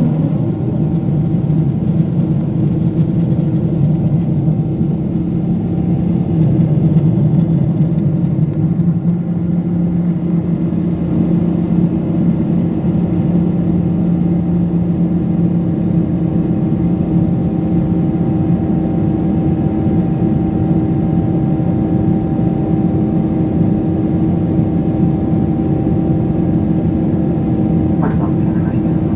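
Cabin noise of a Boeing 777-200 airliner in its climb after takeoff: a steady engine drone and rush of air, with a few steady hum tones.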